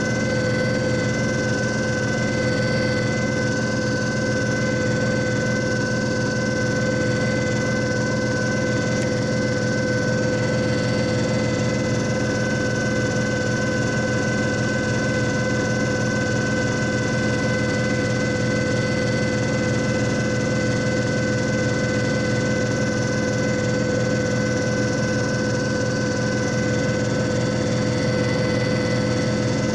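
JFJ Easy Pro disc repair machine running steadily: an even motor hum with several high steady whining tones that do not change.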